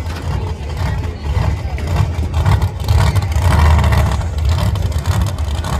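Monster truck engine revving in the arena, a loud low rumble that swells about two seconds in, peaks a little later and then eases off.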